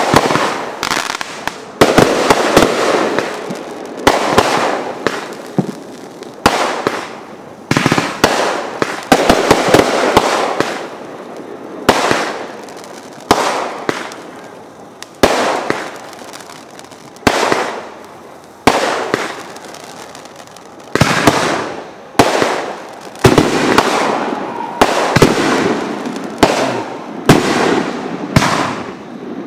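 Aerial fireworks bursting in a steady string of loud bangs, about one every second or two. Each bang trails off over a second or so before the next.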